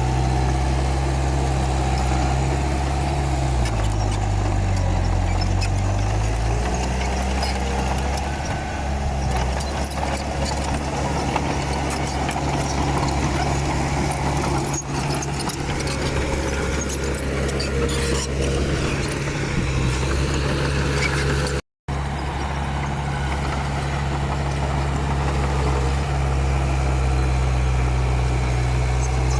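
Komatsu D31P bulldozer's diesel engine running steadily. Its note drops for a few seconds about four seconds in, then comes back up. The sound cuts out for an instant about three-quarters of the way through.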